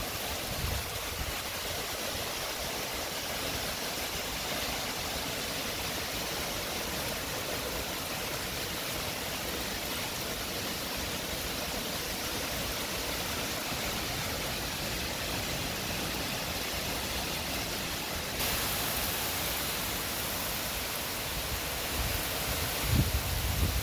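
Heavy rain pouring down, a steady dense hiss. In the last few seconds the hiss grows louder and brighter, and a few low thumps come near the end.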